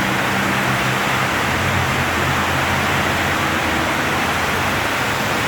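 Heavy rain pouring down, a loud steady hiss, with a faint low hum beneath it for the first couple of seconds.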